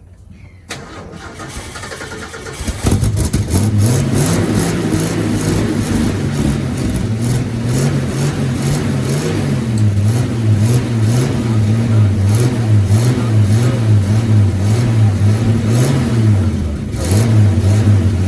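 Old Ford F-series truck engine cranked over on the starter and catching about three seconds in. It then runs unevenly, its pitch rising and falling as it is revved, with a brief dip near the end.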